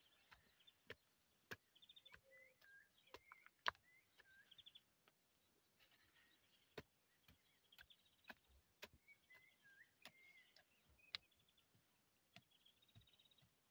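Near silence with faint small songbirds chirping and trilling on and off, and scattered sharp clicks.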